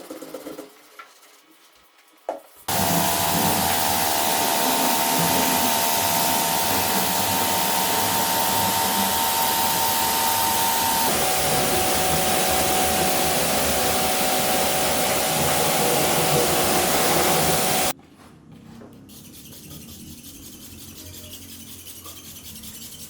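Compressed-air tool hissing steadily at full blast, with a steady whistle-like tone in the hiss that drops slightly in pitch about halfway through. It starts abruptly about three seconds in and cuts off abruptly near the end, as when a trigger is pressed and released.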